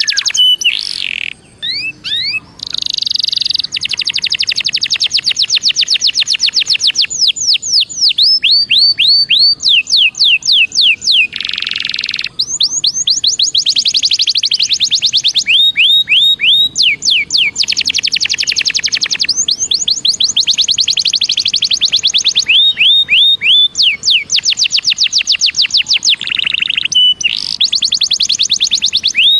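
Belgian canary singing: long, rapid trills of high down-slurred notes in phrases several seconds long, with short breaks and a brief harsh buzzy note about twelve seconds in.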